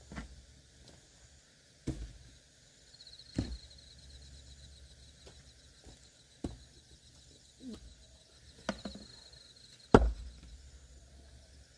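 Axe blows splitting firewood: sharp chopping strikes every second or two, about six in all, the loudest near the end.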